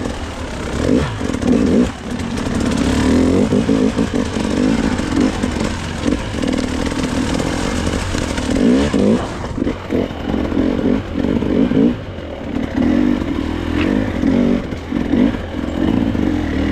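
Dirt bike engine revving up and easing off over and over as it is ridden through deep, muddy water, the throttle opened and closed in short blips.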